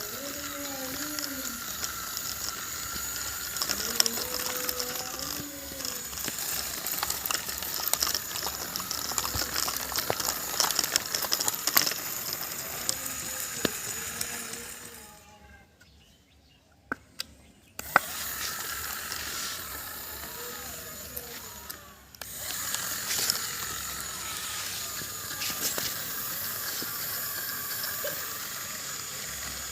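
Small electric gear motors of a homemade RC 4×4 tractor running with a steady whine and rattling gear clicks under load, stopping for about two seconds a little past halfway and then running on.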